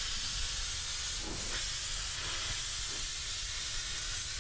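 Restored steam locomotive venting steam in a steady hiss.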